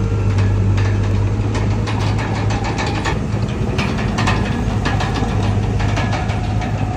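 Bulldozer's diesel engine running steadily with a deep hum, with frequent sharp clicks and clanks over it.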